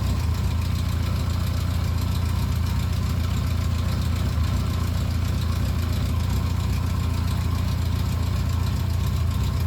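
Yamaha XJ600 S air-cooled inline-four engine idling steadily, freshly started in the cold after a clutch repair. It runs evenly with no rattle, and the owner finds no problem with it.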